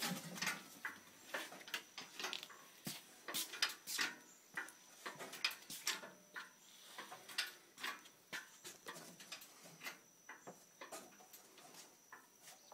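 Irregular metallic clicks and knocks, several a second, from the engine hoist and the engine as the engine is lifted out of the truck.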